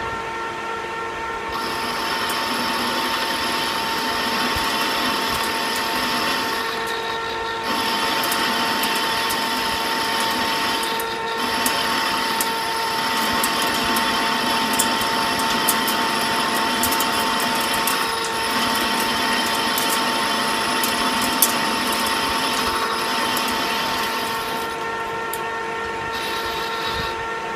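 Metal lathe running with a steady whine while a carbide-insert boring bar cuts 1018 cold-rolled steel. The hissing, scraping cut starts about a second and a half in, breaks off briefly twice, and eases near the end, with hot stringy chips coming off.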